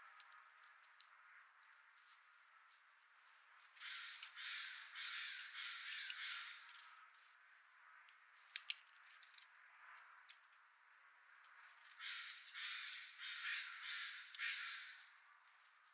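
Harsh, repeated cawing calls of a corvid in two runs of several calls each, about four seconds in and again about twelve seconds in, with a few sharp clicks between them.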